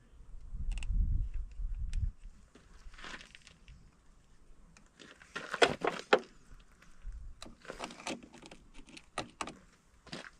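A low rumble for the first couple of seconds, then scattered clinks, rattles and scrapes of small hard objects being handled, busiest in the middle and toward the end.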